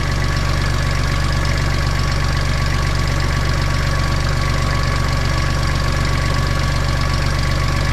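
Compact diesel tractor engine running steadily at idle, with a faint steady whine over the low rumble.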